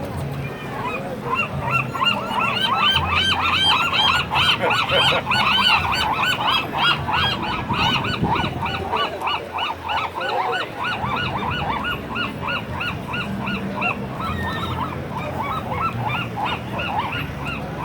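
Gulls calling in a long, rapid run of repeated squawking calls, several birds overlapping, loudest a few seconds in and easing toward the end.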